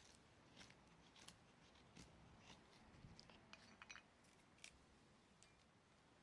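Faint, scattered light clicks and ticks over a quiet background, a few of them with a brief metallic ring about three and a half to four seconds in.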